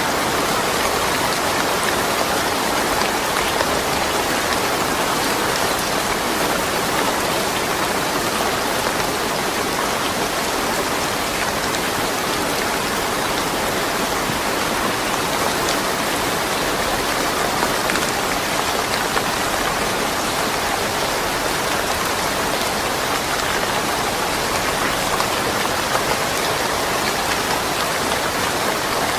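Steady rain falling without thunder, an even continuous patter.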